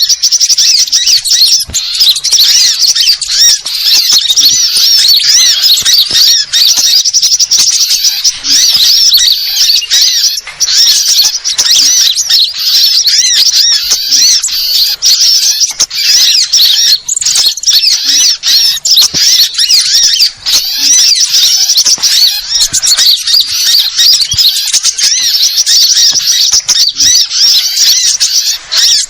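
A dense, noisy chorus of many small birds, sunbirds among them, chirping and twittering rapidly and without a break: a mixed small-bird commotion of the kind used as a bird-trapping lure call.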